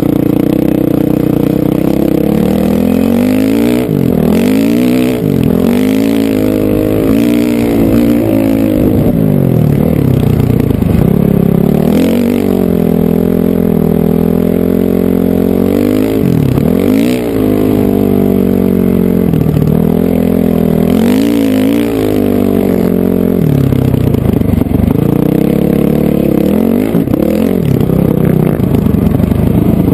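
Honda CRF450R dirt bike's single-cylinder four-stroke engine under way, its pitch climbing and then dropping sharply every few seconds as the throttle is opened and shut.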